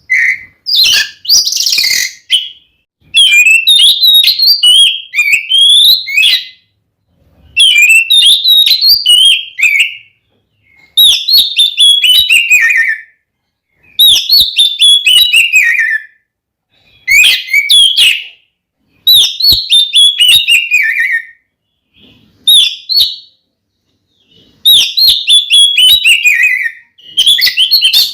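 Oriental magpie-robin (kacer) singing loudly in aggressive, fighting-mode territorial song: about nine fast phrases of a couple of seconds each, separated by short pauses, many ending in a falling sweep.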